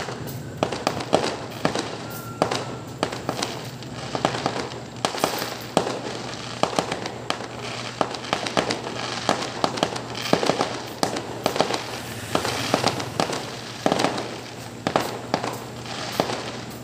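Fireworks display: aerial shells bursting and crackling, a rapid string of sharp bangs that starts about half a second in and keeps on without a break.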